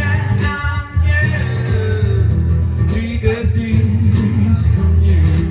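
Live acoustic song: an acoustic guitar strummed in a steady rhythm under a male voice singing between the verses' lines.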